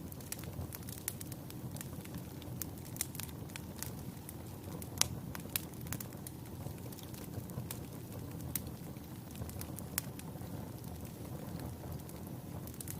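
Wood fire burning in a fireplace: a steady low rumble of flames with irregular sharp crackles and pops, the loudest about five and ten seconds in.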